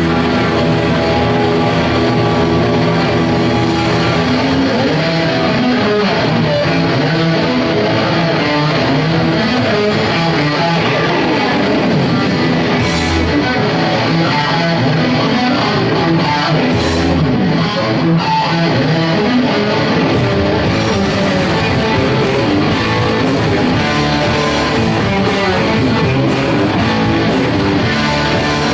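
Rock band playing live, led by guitars, in an instrumental passage with no singing. The sound is loud and steady, with a couple of brief bright crashes around the middle.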